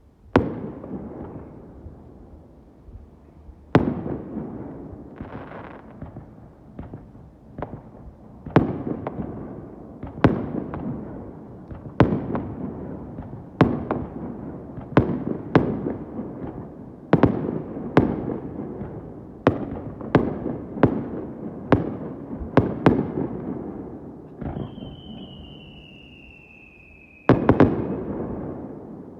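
Aerial firework shells bursting, a long run of sharp bangs, each trailing off in an echoing rumble, at times several a second. Near the end a long whistle slowly falls in pitch and is cut off by one of the loudest bursts.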